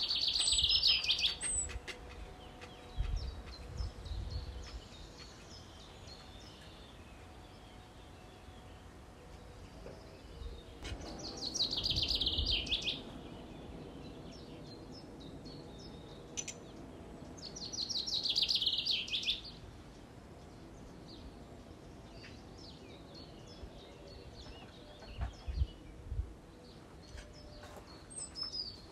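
Songbird singing: three loud, rapid high trills, near the start, about twelve seconds in and about eighteen seconds in, with fainter chirps between them. A few low thumps sound around four seconds and twenty-five seconds in.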